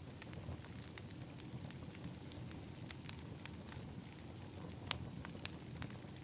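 Wood fire in an outdoor fire pit crackling, with frequent irregular sharp pops over a steady low rumble. The loudest pop comes about five seconds in.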